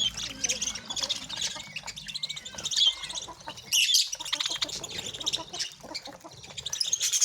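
A group of birds chattering noisily while feeding, with many quick overlapping high chirps and short clicks.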